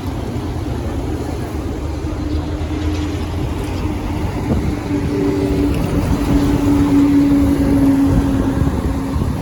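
Motor vehicle engine running with a steady drone that grows louder about halfway through, over a low traffic rumble and wind buffeting the microphone.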